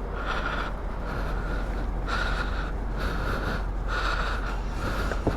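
A damp rag wiped back and forth over motorcycle plastic panels, making repeated short swishes at about one every two-thirds of a second, over a steady low hum.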